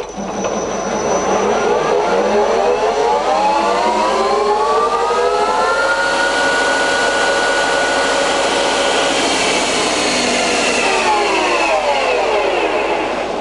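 Hafco Metalmaster CL68A lathe running its spindle at top speed, 1600 rpm, on its VFD-driven main motor: a whine of several tones rises in pitch as the headstock spins up over about five seconds, holds steady, then falls away as it spins down near the end.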